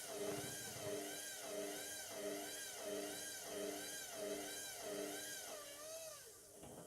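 Indesit MTWC71252WUK washing machine drum turning at distribution speed, its motor whine rising and falling about once every 0.7 s as it tries to balance a lone bath mat before spin. The drum slows and the whine dies away near the end.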